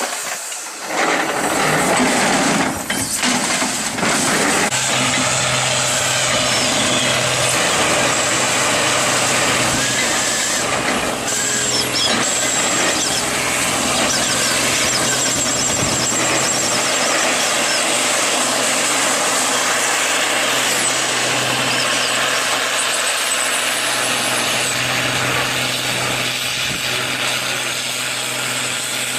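Steam excavator working: continuous hissing and mechanical clatter, joined about five seconds in by a steady low hum that holds to the end.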